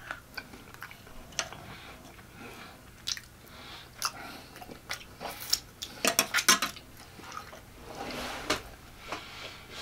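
Close-up mouth sounds of a person eating: wet chewing and lip smacking with sharp clicks, including a quick run of loud smacks about six seconds in. Near the end comes a wetter sucking sound as sauce is licked off the fingers.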